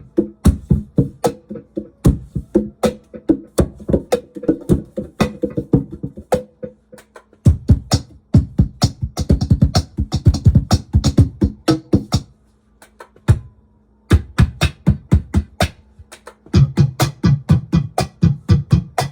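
Laptop cajon drummed by hand and run through a DigiTech BP355 multi-effects pedal, the hits coming out as an effected, drum-machine-like beat of several strokes a second over a steady low tone. The playing breaks off briefly about seven seconds in and again about thirteen seconds in.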